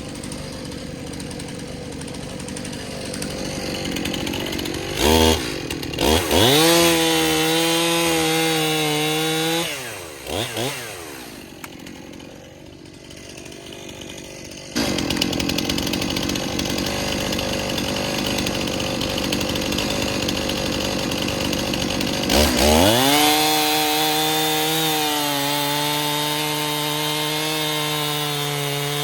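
Two-stroke chainsaw revving up to full throttle, dropping back to idle, then running steadily. It revs up again to full throttle near the end.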